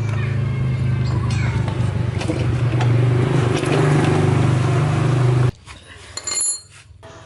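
A motor-driven machine running steadily with a low hum, then shutting off abruptly about five and a half seconds in; a brief clink follows.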